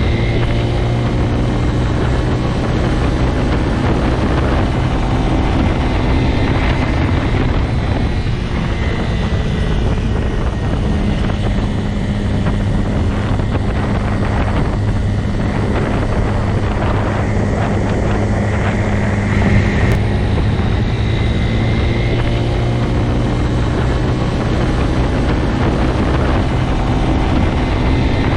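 Motorcycle engine running steadily, its pitch holding fairly even with only small rises and falls.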